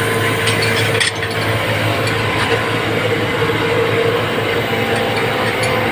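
Vacuum truck running steadily while clearing drains: a constant loud mechanical drone with a steady hum. A short sharp knock about a second in.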